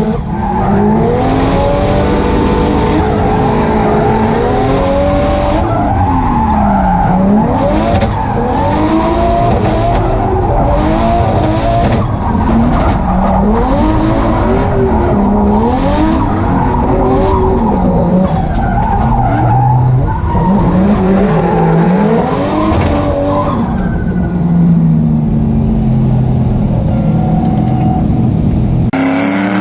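Turbocharged 1JZ straight-six in a Nissan 240SX revving hard and repeatedly rising and falling in pitch through a drift run, with bursts of tyre skid noise from the wet surface.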